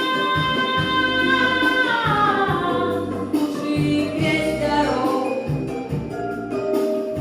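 Female solo voice singing a long held note that then slides down in pitch, followed by shorter falling phrases, over a pop backing track with a pulsing bass.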